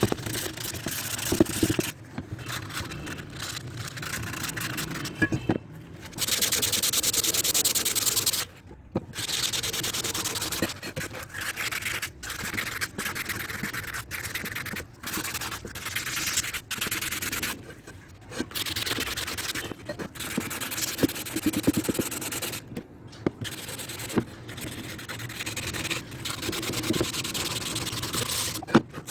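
Hand rubbing on a Honda CD 70 engine side cover, a run of scraping strokes that stop and start with short breaks between them.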